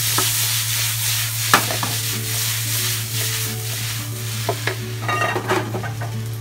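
Ketchup rice sizzling hard in a frying pan as it is tossed and stirred, just after a splash of sake, white wine and soy sauce hits the hot pan. A sharp knock about a second and a half in, and pan and spatula clatter near the end, over a steady low hum.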